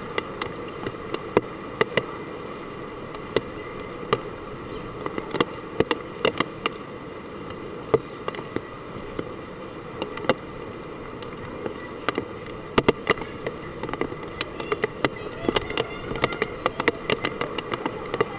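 Heavy typhoon rain falling: a steady hiss, with many irregular sharp drop impacts on a hard surface that grow thicker in the second half.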